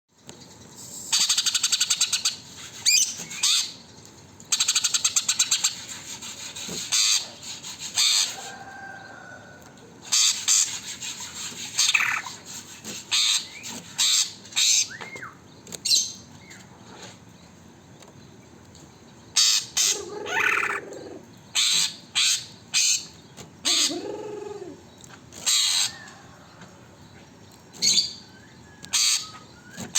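Green leafbird (cucak ijo) singing actively: repeated bursts of rapid, buzzy chattering notes broken up by short whistled slurs. Its song is filled with mimicked house-sparrow-type chirps.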